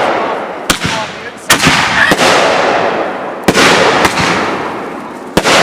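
Consumer firework shells bursting in quick succession: about five sharp bangs, each followed by a long crackling, rolling tail that fades before the next.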